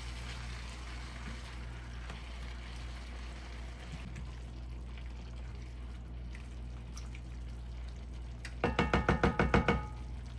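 Seasoned chicken cooking quietly in a saucepan: a faint steady bubbling and sizzle over a low hum. Near the end comes about a second of rapid metallic rattling with a ringing tone.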